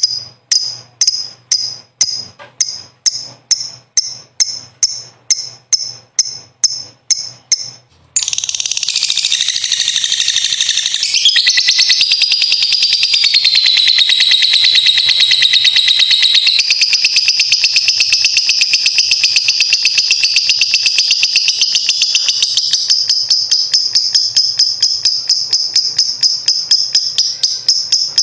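Lovebird giving short sharp high chirps, about two to three a second, then about eight seconds in breaking into ngekek panjang: a long, unbroken, rapid chattering trill that holds on without a pause, its pitch dipping and rising.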